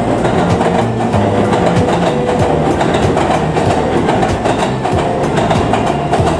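Electric commuter train crossing a steel girder railway bridge: a steady loud rumble with wheels clicking regularly over the rail joints.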